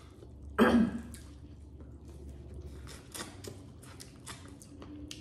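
Close-up eating sounds: biting and chewing sauced corn on the cob, with wet mouth smacks and clicks. One loud wet mouth sound comes about half a second in.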